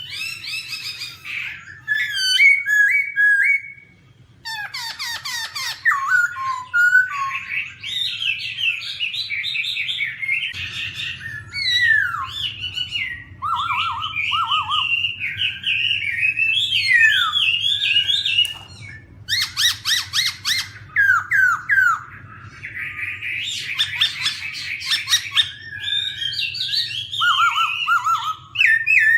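Black-throated laughingthrush singing a long, varied song of loud whistled phrases, quick runs of notes and harsher calls, pausing briefly twice, over a faint steady low hum.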